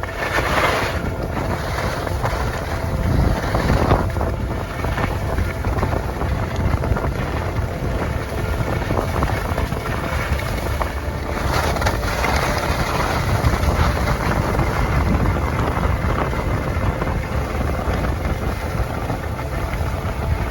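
Wind buffeting and rushing over an action-camera microphone, a dense, fluctuating rumble.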